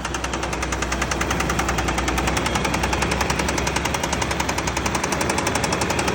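Toyota 3VZ-E 3.0 L V6 engine running with a rapid, even knock that keeps pace with the engine, which the owner wonders may be valve tick.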